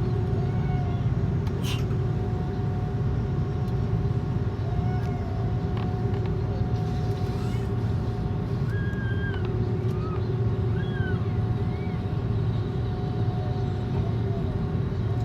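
Airbus A330's jet engines running, a steady low rumble with a faint steady whine.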